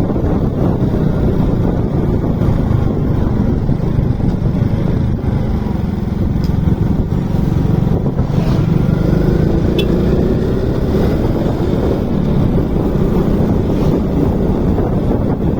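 Motorcycle engine running while riding, under a heavy rush of wind on the microphone; the engine note rises about eight to ten seconds in.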